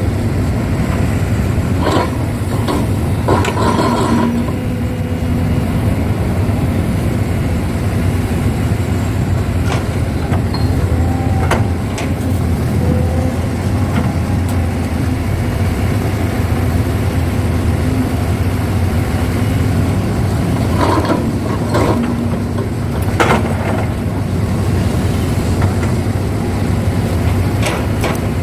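Heavy diesel engine running steadily as a Kobelco excavator loads soil into a dump truck, with a handful of short knocks and clatters scattered through, from the bucket and soil landing in the truck bed.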